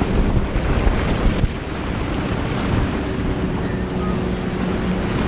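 Wind buffeting the microphone over the steady hum of a motorboat's engine, with rushing water.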